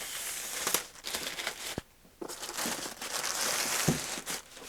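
Plastic bag crinkling and rustling as it is handled and pulled open, in two stretches with a short pause about two seconds in, with a few sharper crackles.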